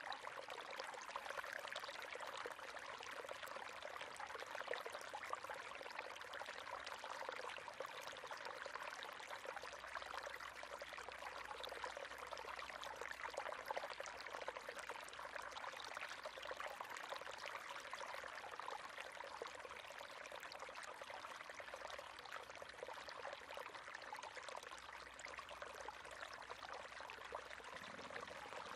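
River water flowing steadily over stones, a continuous babble with fine splashing and trickling.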